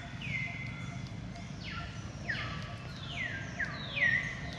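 Bird calls: a series of short down-slurred whistles, about six in quick succession and some overlapping, over a steady low background rumble.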